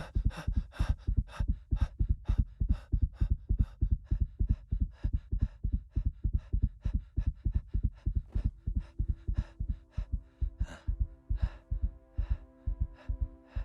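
A fast, pounding heartbeat sound effect in rapid, evenly spaced low thumps: the racing heart of a cartoon cat in panic. Low sustained music chords come in about two-thirds of the way through.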